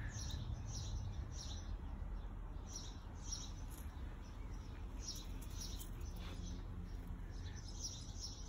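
Small birds chirping in many short, high calls, over a steady low rumble.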